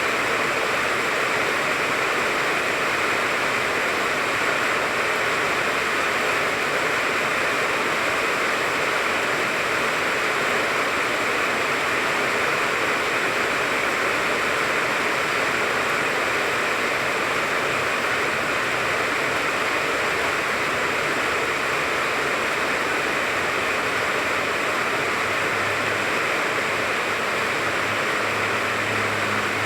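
Steady rain falling on a tangerine tree, an even hiss of drops on leaves. A low hum comes in near the end.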